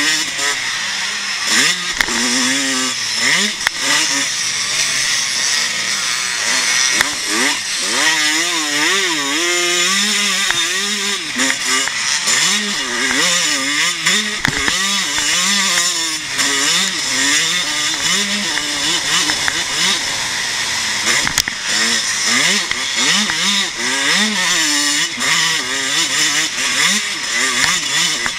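Vintage pre-1990 motocross bike's engine, heard from on board while racing. It revs up and drops back again and again through the gears and turns, over a constant rushing hiss.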